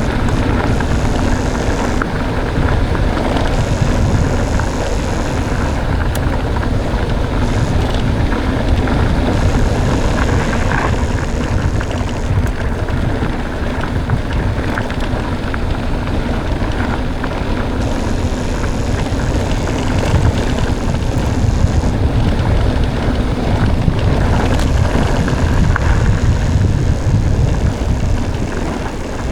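Wind buffeting the microphone and tyres rolling over a dirt track while an electric mountain bike is ridden: a steady, loud rumble with some hiss that comes and goes.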